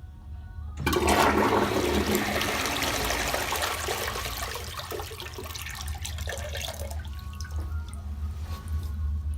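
INAX (LIXIL) toilet flushing: a sudden rush of water about a second in that slowly fades, then settles into a softer trickle of refilling water for the last couple of seconds.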